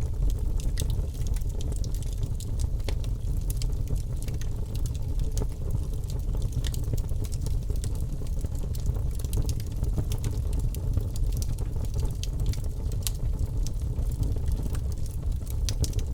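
Wood fire crackling in a fireplace: frequent small pops and snaps over a steady low rumble of the flames.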